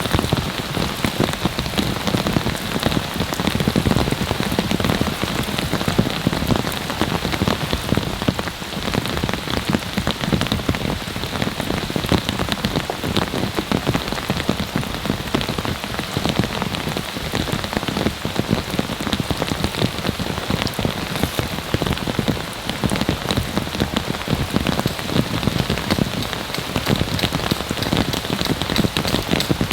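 Heavy rain falling steadily, with dense close drop impacts on a camping tarp overhead.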